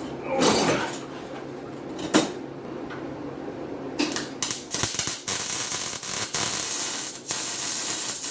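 A couple of metal clanks, then from about four seconds in a steady crackling hiss of an electric welding arc as the exhaust bracket is welded on solid.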